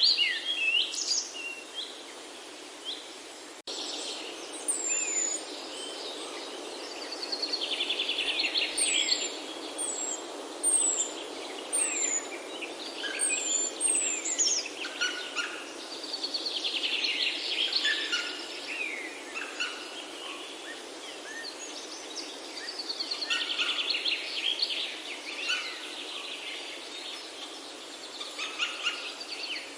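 A chorus of several songbirds singing and calling over one another, with rapid trills and a run of short, high falling whistles, over a steady even background hiss.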